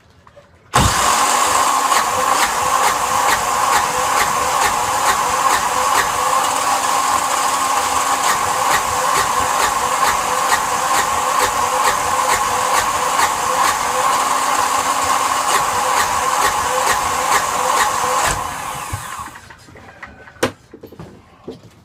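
Yanmar SB12 single-cylinder marine diesel starts abruptly about a second in, runs steadily with an even ticking rhythm for about seventeen seconds, then winds down and stalls. It is stalling after the fuel system has been bled, the fault being chased in the fuel line. A couple of sharp clicks follow.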